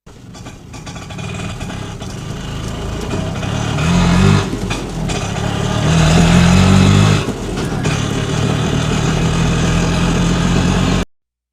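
Vehicle engine running. It revs up twice, about four seconds in and again around six to seven seconds, then settles back to a steady run and cuts off abruptly.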